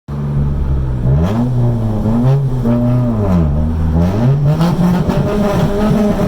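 Nissan B15 Sunny with a dual muffler, its exhaust note revved in a rhythmic bōsōzoku-style 'call': the pitch rises about a second in, falls, rises again, drops around three and a half seconds in, then climbs and holds higher near the end.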